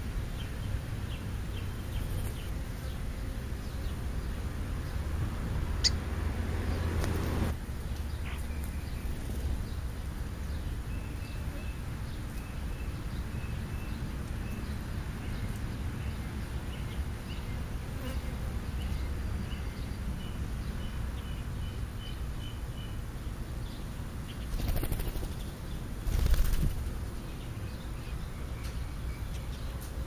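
Small birds feeding on the ground: a faint series of short, evenly spaced chirps over a steady low rumble, with a few brief louder flutters.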